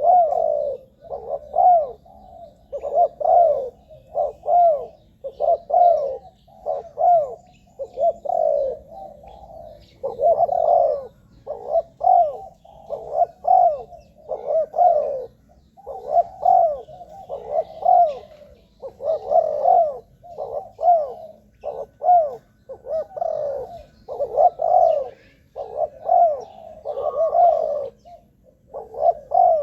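Spotted dove cooing over and over in short runs of low notes, with brief gaps between the phrases.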